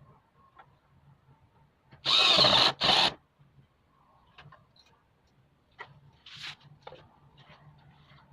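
A power drill-driver runs in two short bursts about two seconds in, a longer one then a brief one, with faint clicks and taps of handling around them.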